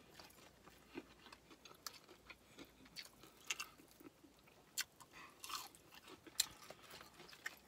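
A person chewing a mouthful of crispy fried chicken, with quiet, irregular crackles and clicks as she chews.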